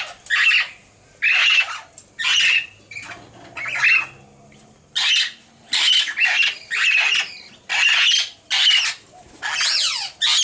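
Princess parrots squawking repeatedly, a little over one harsh call a second, in a busy cage of adults and fledged young.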